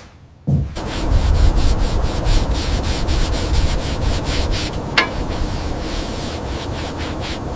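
Rapid back-and-forth rubbing strokes on a surface, like hand sanding, about three a second, starting about half a second in. There is one sharp click about five seconds in.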